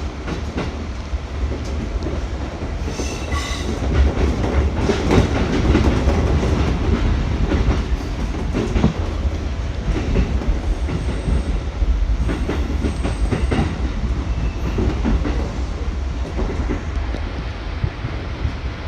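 Electric commuter train running on the Musashino Line, heard from aboard: a steady rumble with the wheels clacking over rail joints.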